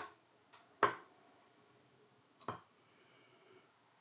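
Hard clicks of small parts and tools being handled on a bench: a sharp knock about a second in, and a weaker one about two and a half seconds in.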